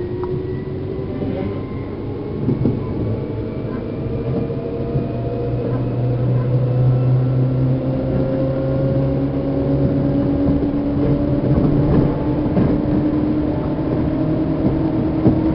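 Seibu New 2000 series electric train heard inside motor car MoHa 2291 while running: the motor and gear whine climbs slowly in pitch as the train gathers speed. A low hum comes in for a few seconds midway, and a few sharp knocks from the wheels on rail joints are heard.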